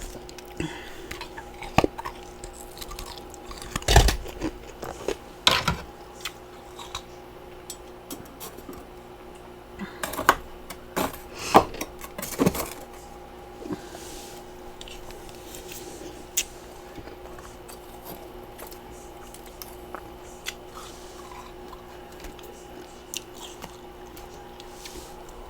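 Freezer frost and ice chunks being bitten and chewed: loud crisp crunches in bursts through the first half, thinning to occasional faint crunches in the second half, over a steady faint hum.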